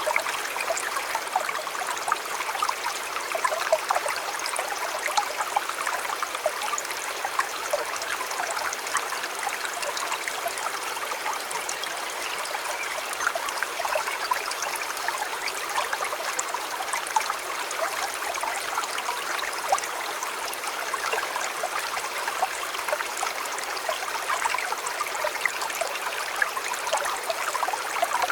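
River water flowing and babbling steadily over stones, a bright, even rush thick with small splashes and droplet sounds and little deep rumble.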